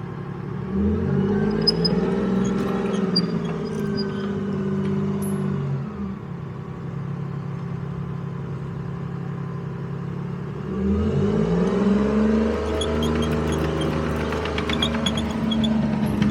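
M113 armoured vehicle's engine running, picking up revs about a second in and again about eleven seconds in, and holding steady in between.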